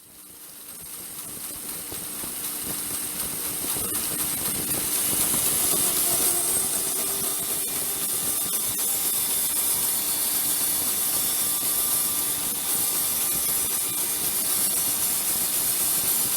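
A steady hiss with a faint hum under it, fading in over the first few seconds and then holding steady.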